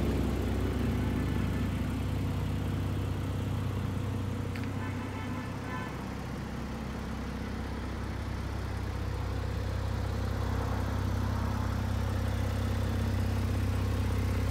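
Porsche 911 Carrera 4S twin-turbo flat-six, fitted with the sport exhaust, idling with a steady low hum. It is quieter in the middle and louder again near the end.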